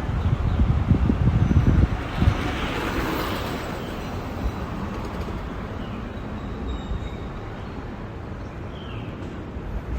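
Outdoor ambience from a slow bicycle ride. Wind buffets the microphone in gusts for the first two seconds, then a swell of noise that fits a passing vehicle follows, and a few faint bird chirps come near the end.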